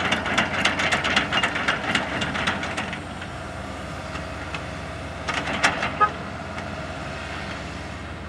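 Bulldozer's diesel engine running steadily, with rapid clattering and knocking over the first three seconds and a short loud burst of clatter again about five and a half to six seconds in.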